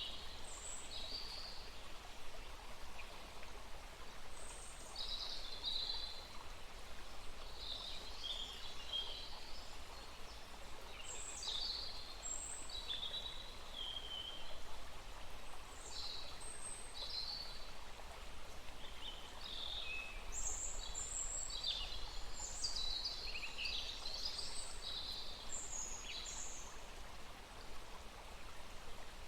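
Small forest stream flowing steadily, with several birds calling and singing over it in short high chirps and trills, busiest in the second half.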